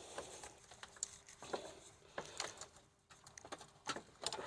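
Faint scattered clicks and light taps of plastic parts being handled: hands working loose a plastic wire connector on the radiator fan shroud.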